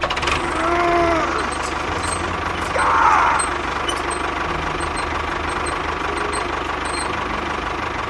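Tractor engine running steadily with a fast, low pulsing beat as the miniature model tractor drives. Two short wavering higher tones come over it about a second in and again around three seconds in.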